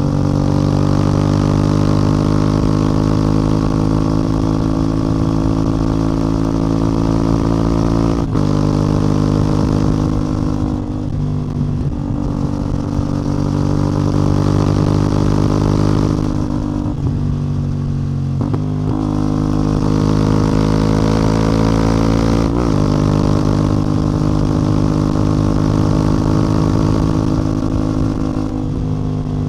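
CF Moto 450MT's 449 cc parallel-twin engine and exhaust pulling on the road, its note climbing slowly. It breaks briefly with a step in pitch a few times, the sound of gear changes.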